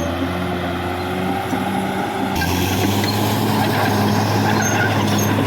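Caterpillar D6R XL bulldozer's diesel engine working under load, a steady low drone with broad mechanical clatter over it; the noise gets harsher and a little louder a couple of seconds in.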